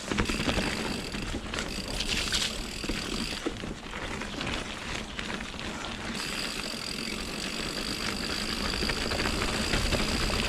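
Mountain bike on Pirelli Scorpion tyres ridden over rocky, wet singletrack: tyres rolling and rattling over rocks, with frequent small clicks and knocks from the bike and a low rumble. A steady high whine runs through most of it and drops out for a couple of seconds near the middle.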